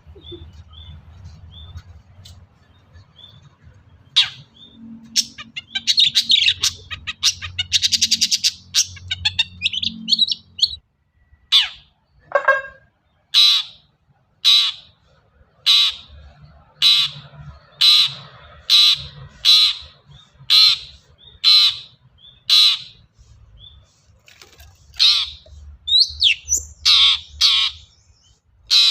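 Long-tailed shrike (cendet) singing: a fast, high chattering run, then a string of loud, sharp downward-sweeping calls repeated about once a second, with a quicker cluster of calls near the end.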